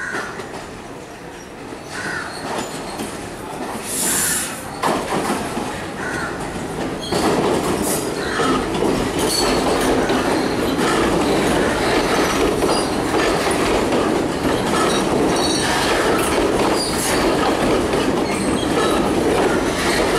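A Sri Lanka Railways diesel multiple unit passing on curved track. The rolling rumble of the cars gets louder about seven seconds in, with wheels clicking over the rail joints and squealing on the curve. A short hiss comes about four seconds in.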